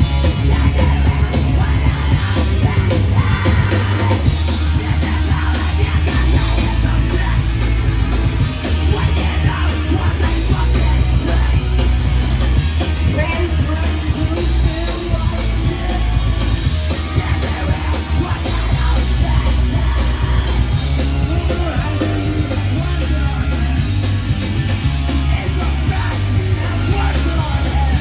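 Rock band playing live, loud and without a break, with shouted vocals over the full band and a heavy bass line.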